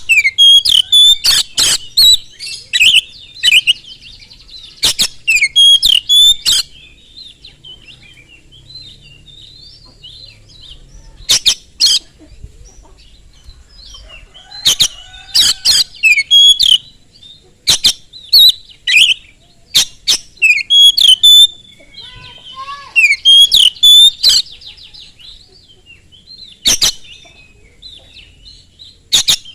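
Oriental magpie-robin (kacer) singing loudly in bursts of sharp, fast whistled phrases, with short pauses between the phrases.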